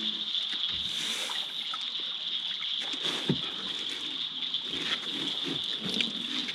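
Water lapping and sloshing against the hull of a small boat, with a steady high-pitched whine behind it and a couple of sharp knocks, one about halfway through and one near the end.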